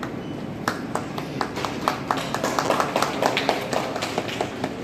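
Scattered hand-clapping from a small group, starting about a second in and thickening into quick, uneven applause before thinning out near the end.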